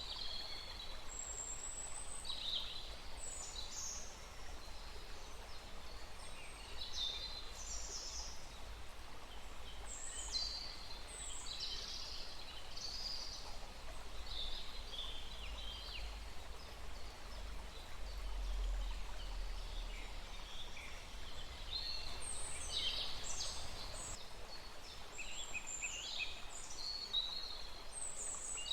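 Several birds calling and singing in scattered short high chirps and down-slurred notes, over the steady rush of a small stream and a low rumble.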